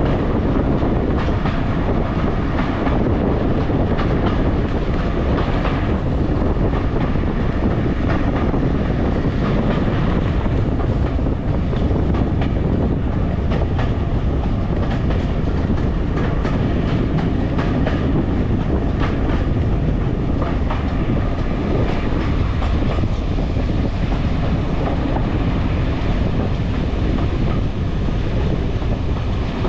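Train running steadily along the rails: a continuous rumble with the clickety-clack of the wheels over the rail joints.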